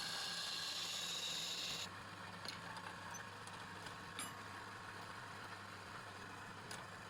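A workshop machine running with a steady low hum. A bright hissing noise rides over it for the first two seconds, then stops. A few scattered clicks follow.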